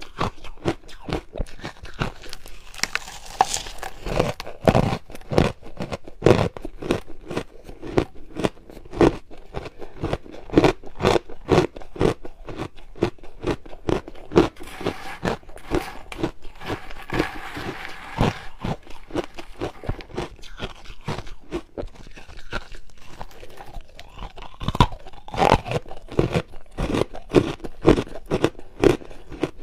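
Close-miked crunching of hard ice being bitten and chewed, in a dense, irregular run of sharp cracks, with a stretch of grittier, continuous grinding a little past the middle.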